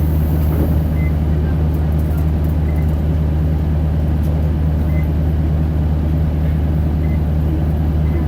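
Isuzu Erga 2KG-LV290N2 city bus's four-cylinder diesel engine running at a steady, unchanging speed, a loud low drone.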